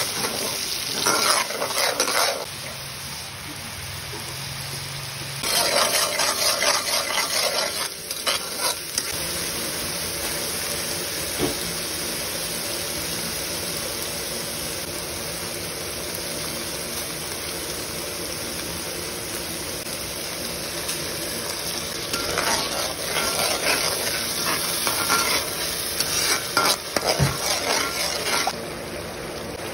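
Chili sambal paste sizzling and bubbling in oil in a stainless-steel wok, with spells of a spatula stirring and scraping against the pan at the start, about five seconds in, and again for several seconds near the end.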